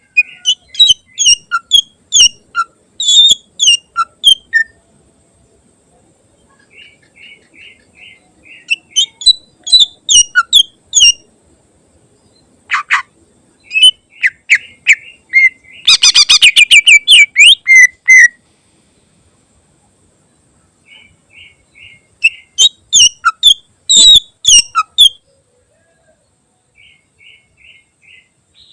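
Cucak ijo (greater green leafbird) singing: loud phrases of sharp, quickly changing whistled notes separated by pauses, with softer runs of evenly repeated chirps in between and a fast rattling trill a little past the middle.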